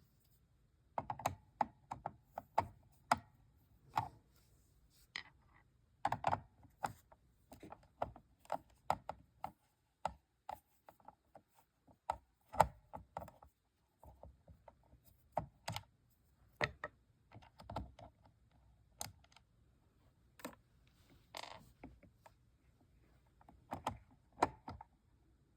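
Hands working on the plastic housing and parts of an Ocean Wonders toy aquarium: irregular sharp clicks and light knocks of plastic being handled, sometimes several a second, with a short pause near the middle.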